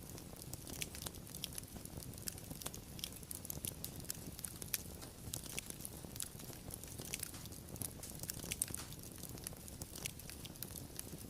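Wood fire burning, with dense, irregular crackles and pops over a low, steady rumble of the flames.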